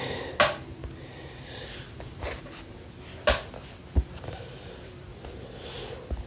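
Two short breaths or sniffs close to the microphone, about half a second in and again past three seconds, with a soft low thump about four seconds in, over faint room noise.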